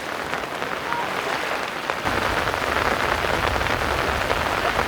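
Steady rain falling and pattering on surfaces. About two seconds in it turns a little louder, with a deeper rush underneath.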